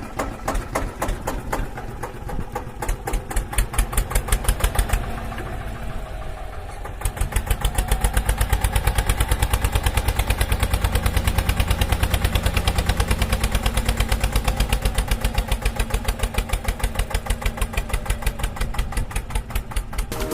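A small homemade mini tractor's engine running with a rapid, even chugging. It gets louder about seven seconds in and keeps running steadily.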